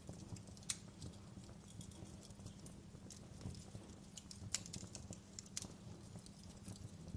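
Wood fire burning in a fireplace, crackling with irregular sharp pops and snaps over a steady low rumble of the flames. The loudest pops come about half a second in and again about four and a half seconds in.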